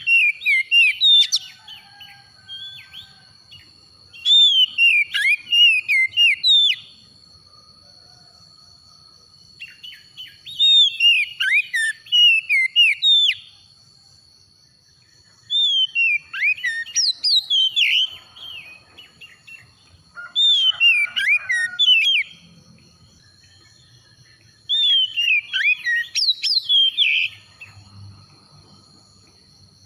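Oriental magpie-robin singing: bursts of quick, varied whistled and chattering notes, each lasting two to three seconds and repeated about every five seconds. A faint steady high tone runs underneath.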